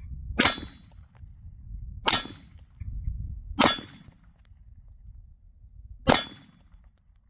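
Four shots from a ZRO FKS-9 9mm pistol, fired one at a time about one and a half to two and a half seconds apart, each a sharp crack with a short ringing tail.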